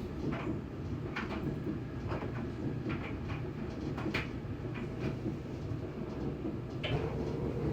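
LG gas dryer running: a steady hum from the drum motor and blower, with occasional knocks as the drum turns. Near the end the gas burner lights, the sign that the heater is now working on the changed cycle setting.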